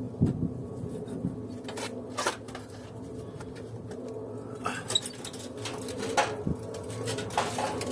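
Scattered clicks and knocks of hand tools on the metal of an air conditioning unit being cut apart for scrap, over a steady low hum.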